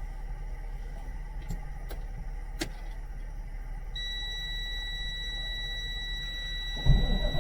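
Semi-truck engine idling during a morning warm-up: a steady low rumble. About four seconds in, a steady high-pitched tone like a dashboard warning buzzer comes in. A sudden, louder rumble starts near the end.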